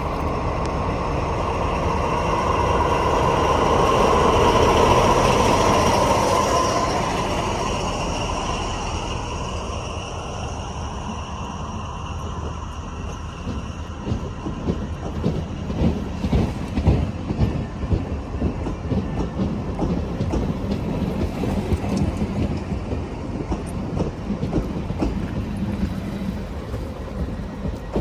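A train passing close by. It is loudest about five seconds in as the front goes past, then a long run of wheel clicks over the rail joints follows as the cars roll by.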